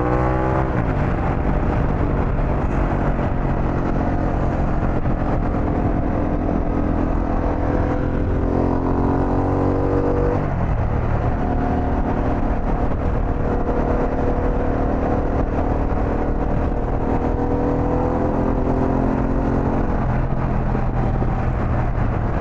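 Harley-Davidson Pan America's 1250 Revolution Max V-twin pulling under load over heavy wind rush at road speed. Its pitch climbs, drops at an upshift about ten seconds in, climbs slowly again and drops near the end.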